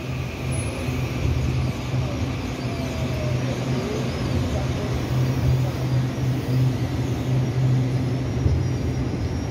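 Taiwan Railway electric commuter train standing at a station platform, its onboard equipment giving a steady low hum, with a few faint gliding tones partway through.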